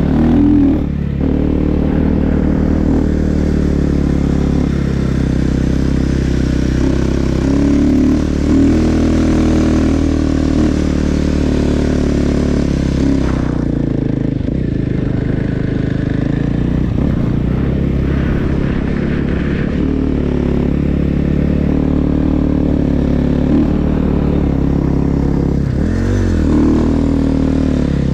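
Snow bike engine (a dirt-bike motor driving a snow track) running steadily under way. Its revs dip and rise again near the end.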